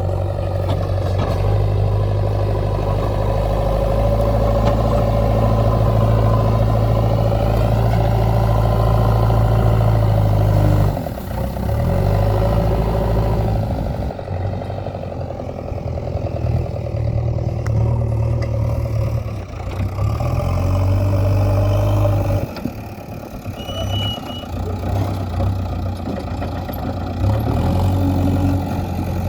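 Diesel engine of heavy field machinery running at working revs, its note shifting as the load changes and dropping away briefly twice, about a third of the way through and again near three-quarters.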